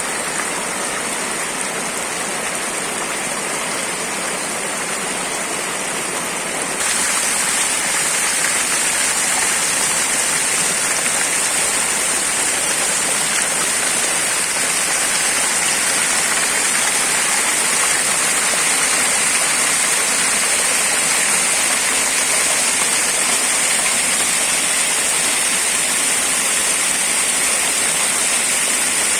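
Steady rush of flowing water from a waterfall or mountain stream. It grows louder and brighter about seven seconds in, then holds steady.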